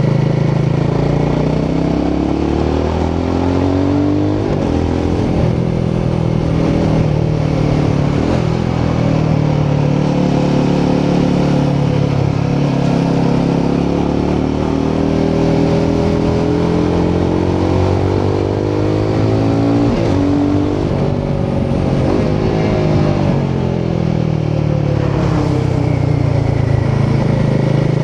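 Royal Enfield Himalayan 450's 452cc single-cylinder Sherpa engine and exhaust under way, the revs climbing and then dropping sharply several times as it shifts up through the gears, with one longer smooth rise and fall of revs midway.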